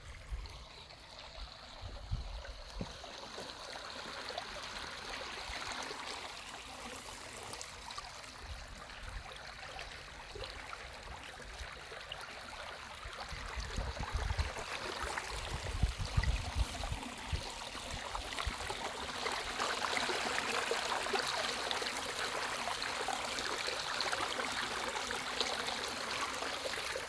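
Water flowing and trickling, a steady rushing that grows louder in the last third, with a few low thumps around two seconds and fifteen seconds in.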